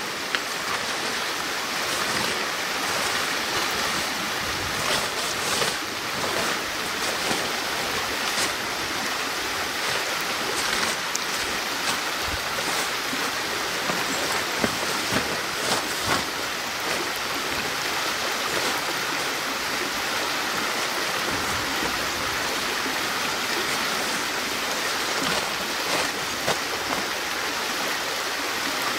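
Steady rushing of running water, like a stream, with a few scattered short clicks or knocks.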